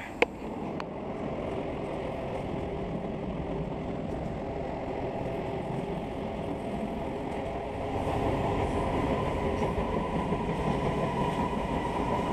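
A train crossing a steel truss railroad bridge overhead: a steady rumble from the cars with several steady ringing tones over it, growing louder about eight seconds in.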